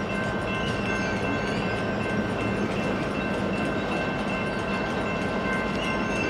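Freight train cars rolling past with a steady rumble and several steady high-pitched ringing tones over it.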